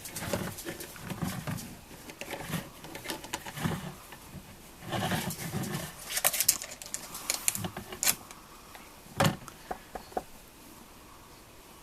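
A small pet rustling about and chewing: a string of irregular clicks, scrapes and rustles with a few soft thuds, thinning out near the end.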